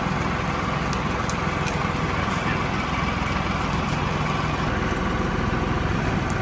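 Mahindra 2555 tractor's diesel engine running steadily.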